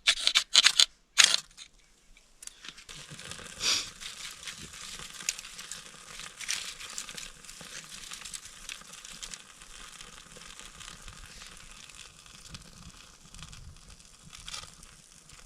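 Dry tinder for a small campfire being crumpled and lit: a few loud crinkling rustles in the first second and a half, then a steady fine crackling as it starts to burn.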